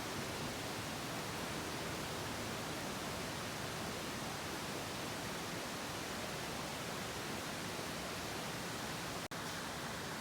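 Steady, even rushing hiss with no distinct clicks or tones, broken by a momentary cut-out about nine seconds in.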